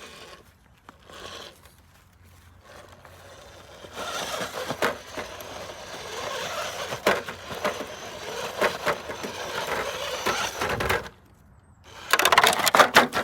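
RC scale rock crawler climbing an obstacle: its electric motor and gear drive whining in uneven spurts as the throttle is worked, with tyres scraping and clicking against the rock. Quiet for the first few seconds, busiest through the middle, a brief pause, then a burst of loud clicks and scrapes near the end.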